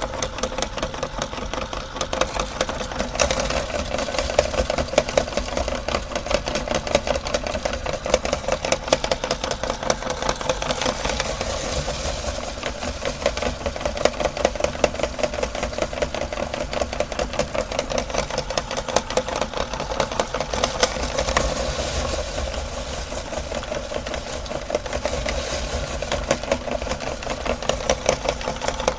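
Electric meat grinder switched on, its motor starting abruptly and then running steadily with a fast, even rattle.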